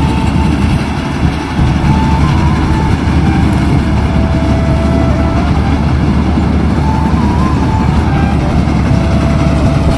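Kubota combine harvester running steadily, its engine and machinery giving a loud, even low rumble.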